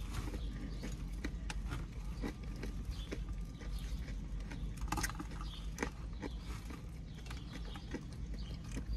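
Close-up chewing of a salad with croutons: irregular small crunches and clicks of food being bitten and chewed, over a low steady hum.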